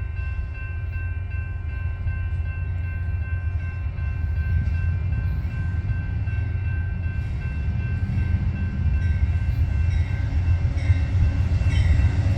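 Diesel locomotive rumble at a railroad crossing, with a few faint steady tones that fade out about halfway through. The rumble grows slightly louder toward the end as an Amtrak train approaches.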